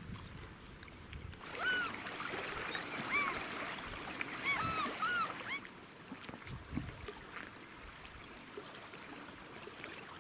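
A bird calling repeatedly: a string of short cries that each rise and fall in pitch, bunched together about two to five seconds in, over a steady background noise.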